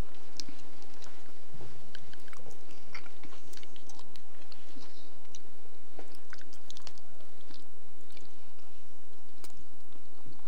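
A person chewing and biting boiled lamb meat picked off the bone by hand, with scattered small wet clicks and smacks.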